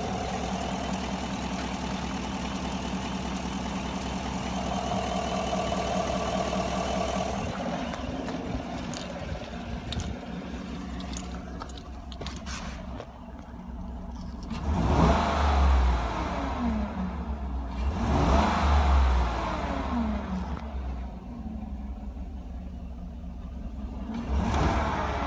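2016 Chevy Silverado engine idling steadily, then revved three times, about halfway through, a few seconds later and near the end, each rev falling back to idle. A few light clicks come between the idle and the first rev.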